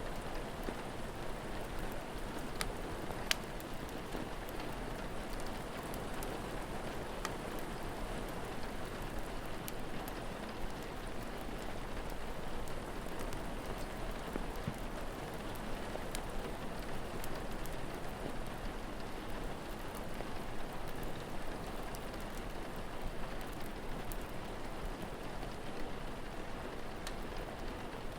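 Steady rain falling, with an occasional sharp crackle or pop from a fire, the loudest about three seconds in.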